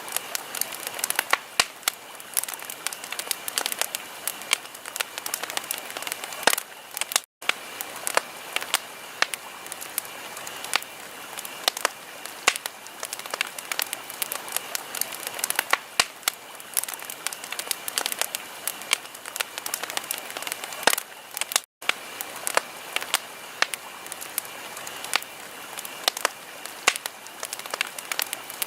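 Wood fire in a fireplace crackling steadily, with many sharp pops over a soft hiss. The sound drops out completely for an instant twice.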